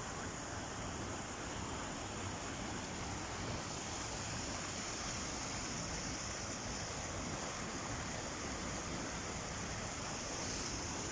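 Steady rush of water falling at a waterfall, an even noise with a constant high hiss above it.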